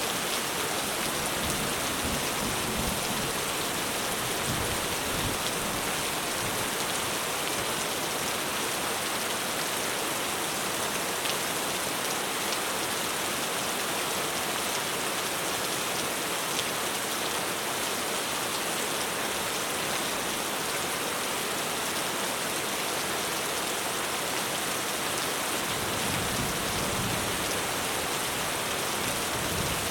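Heavy rain falling steadily on a roof, a dense even hiss of drops, with low rumbles in the first few seconds and again near the end.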